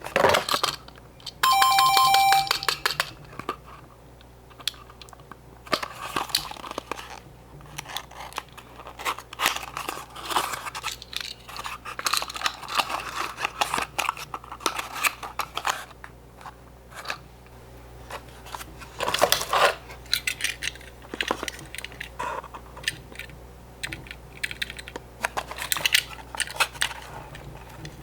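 Die-cast Tomica minicars and their small cardboard boxes being handled: irregular clicks, taps and paper rustling as the cars are slid back into the boxes and the flaps closed. A short bright ringing tone sounds once, about two seconds in.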